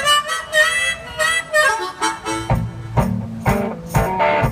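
One-man band music: a harmonica riff with bending notes, then a low bass-and-kick-drum beat comes in with regular strikes about two and a half seconds in.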